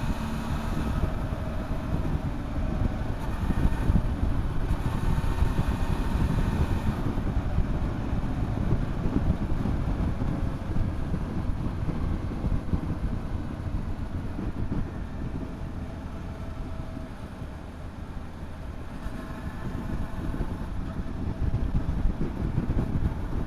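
Motorcycle under way on the road, its engine note rising and falling under heavy wind rumble on the microphone. The engine eases off for a few seconds past the middle and then pulls again.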